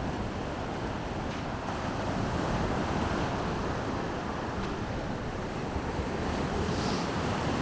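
Baltic Sea surf washing steadily onto the shore, with wind buffeting the microphone.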